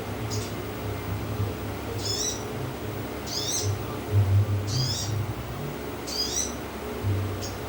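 Sogok ontong (sogon) sunbird calling: short, high, twittering chirps repeated about every second and a half, over a steady low hum.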